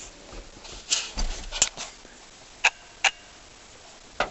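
A few sharp clicks and knocks: a quick cluster about a second in, then two short, slightly ringing clicks about a second apart.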